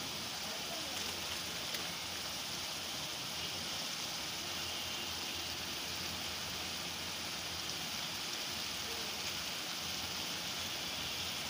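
Tomato-and-onion pav bhaji masala sizzling steadily in butter in a non-stick kadai, an even hiss with no stirring.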